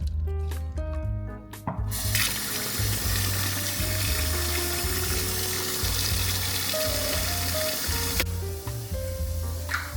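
Water running from a tap into a sink: it is turned on about two seconds in and off about six seconds later. Background music with a steady beat plays throughout.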